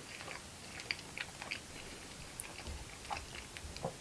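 A person chewing a mouthful of canned stewed pork: faint, soft mouth sounds with scattered small clicks.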